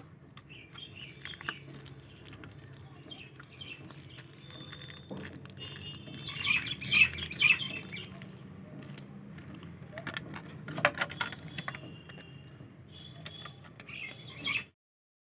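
Birds chirping in short high calls over a low steady hum, with scattered clicks; the sound cuts off shortly before the end.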